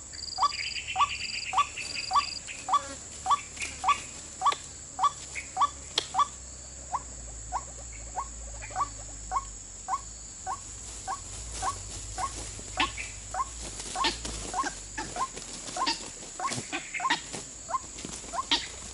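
White-breasted waterhen (ruak-ruak) calling: a long, even series of short, sharp notes, nearly two a second.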